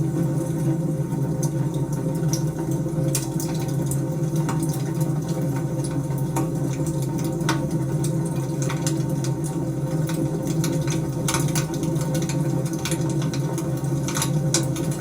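Wood fire burning in a fireplace: a steady low rush of flames with frequent, irregular crackles and pops.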